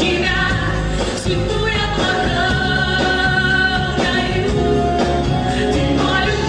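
Pop song performed live: a band playing with a sung vocal line over it.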